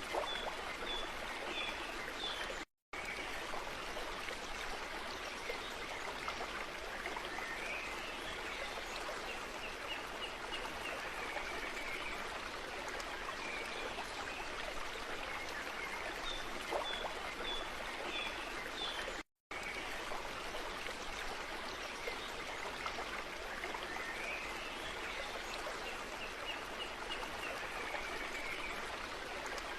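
Steady rush of running stream water, with small birds chirping faintly over it. The sound cuts out completely for a moment twice, about three seconds in and again about twenty seconds in.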